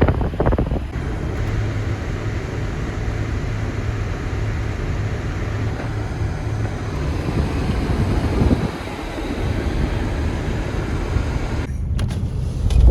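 Car driving on a snowy road, a steady low engine and road rumble.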